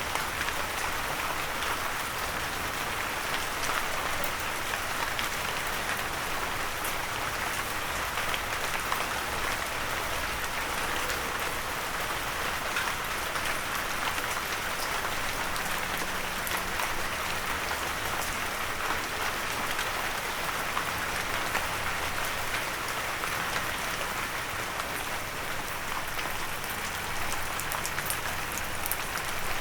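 Steady rain pattering on a windowsill, a dense even hiss with many small drop ticks.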